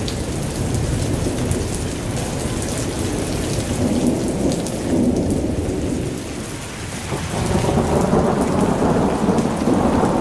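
Thunderstorm: rain falling with scattered drop ticks over a continuous low rumble of thunder, which eases about six seconds in and swells again a second later.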